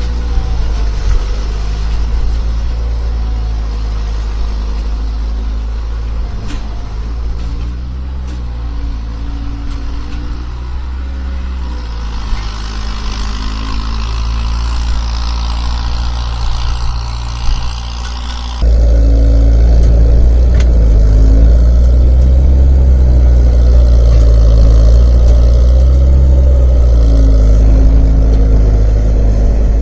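Skid steer engine running under load, its pitch rising and falling as it works. About two-thirds of the way in it suddenly gets much louder and stays loud.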